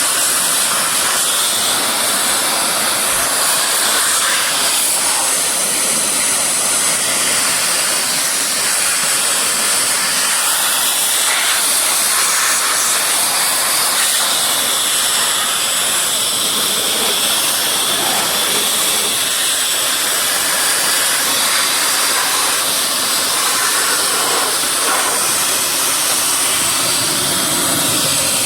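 Hitachi RB40SA blower running steadily at full blast, a loud, even rush of air driving water off a freshly washed car engine bay.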